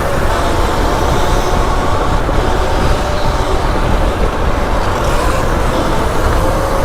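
Riding noise from a moving go-kart: wind buffeting the microphone and road rumble, with a faint motor whine that rises and falls with speed.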